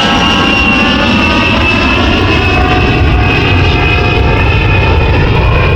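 Jet airplane engine noise: a loud, steady rush with a high whine that slowly falls in pitch.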